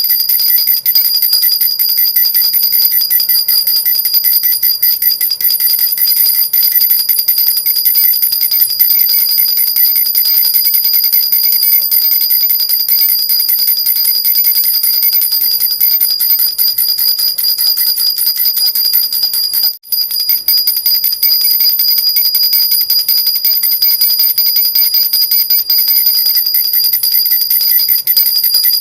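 Jhunjhuna, a metal baby rattle with small bells, shaken continuously in a fast, steady bright jingle with high ringing tones. It breaks off for a split second about two-thirds of the way through.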